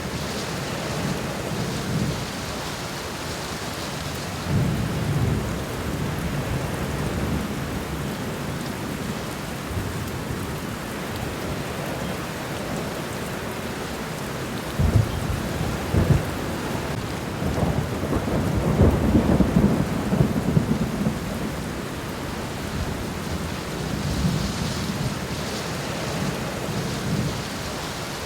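Steady rain falling on the ground, an even hiss throughout. Low rumbles swell in and out, with two sharp low thuds about fifteen and sixteen seconds in and the loudest rumbling just after.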